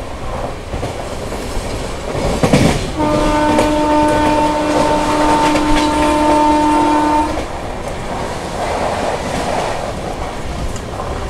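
Express train running fast through a station, heard at an open coach door: steady rumble and rattle of wheels on the rails, with a train horn sounding one steady blast of about four seconds starting about three seconds in.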